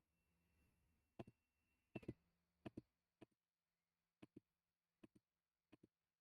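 Faint computer mouse clicking: about six quick clicks, each a press-and-release pair, spaced roughly half a second to a second apart, as line segments are clicked away one by one with a CAD trim tool.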